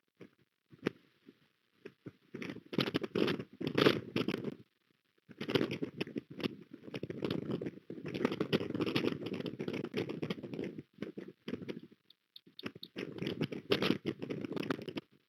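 Strong wind gusting over the nest-camera microphone, coming in three long buffeting bursts with crackling and short lulls between them.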